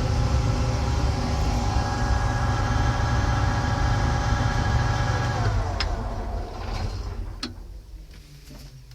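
5130 combine running steadily, then winding down about five and a half seconds in, its pitch falling away, with a couple of sharp clicks after. The operator says it didn't sound good.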